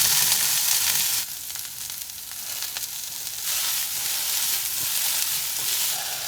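Stir fry sizzling in a hot pan. The hiss drops away about a second in and comes back a couple of seconds later.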